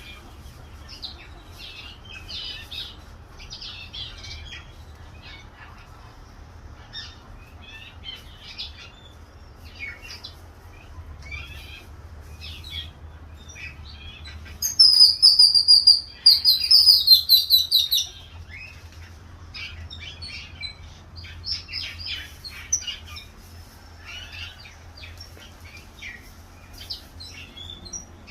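Small birds chirping and twittering on and off throughout. About fifteen seconds in, a much louder, rapid run of high repeated chirping notes comes from close by, in two bursts of about a second and a half each.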